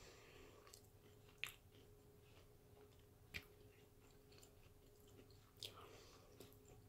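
Faint closed-mouth chewing of a deep-fried Cinnamon Toast Crunch Bite pastry: a few soft mouth clicks spaced about two seconds apart over a faint steady hum.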